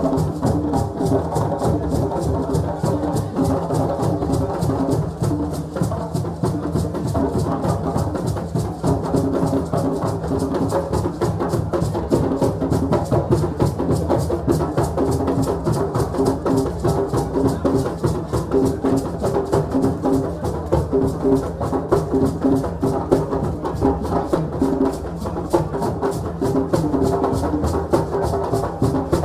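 African celebration drumming: several drums playing a fast, dense, unbroken rhythm, with pitched tones mixed in.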